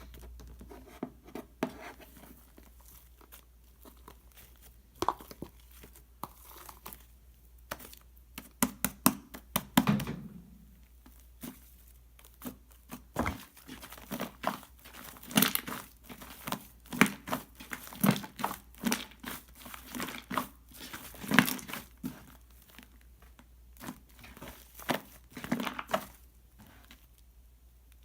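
Irregular crinkling and crackling from something being handled up close, sparse at first and busier from about a third of the way in.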